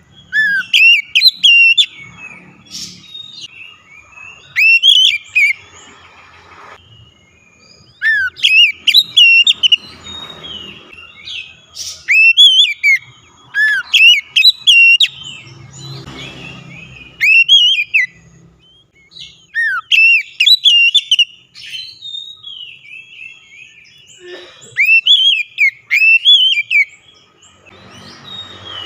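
Oriental magpie-robin (kacer) singing loudly in whistled phrases of about a second or two, full of quick rising and falling notes, repeated every few seconds with short pauses. This is a loud song played as a lure to set a quiet caged magpie-robin singing.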